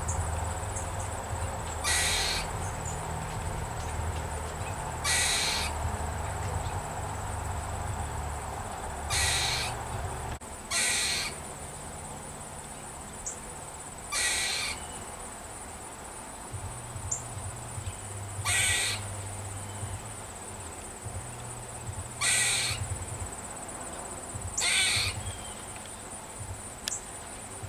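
A squirrel giving its barking alarm call: a string of short barks, each about half a second long, repeated every few seconds. The call is a warning that the squirrel is upset by something it sees as a threat.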